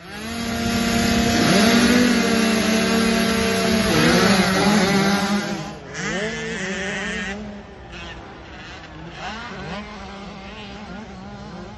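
Small motocross bike engines running hard, loudest for the first six seconds, then fainter, with the engine pitch repeatedly rising and falling as the throttle opens and closes.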